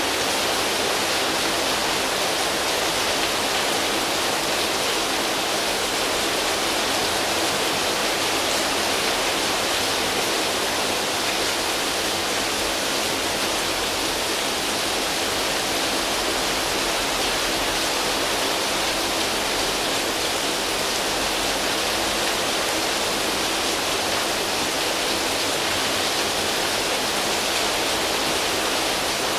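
Steady rain falling on foliage leaves and a tin roof, an even hiss of drops without any breaks.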